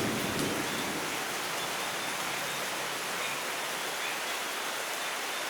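Steady rain falling, an even hiss, with the tail of a thunder rumble dying away in the first second.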